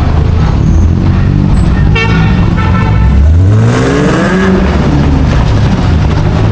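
Car park traffic: a short car horn toot about two seconds in, then a vehicle engine revving up, rising in pitch, a second or two later.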